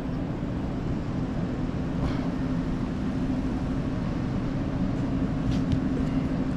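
Truck engine idling steadily, a constant low hum, with a few faint clicks about five and a half seconds in.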